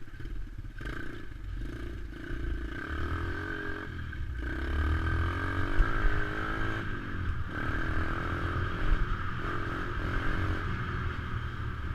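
Dirt bike engine running on a trail ride, its pitch rising and falling with the throttle and easing off briefly about a second in, at four seconds and at seven seconds.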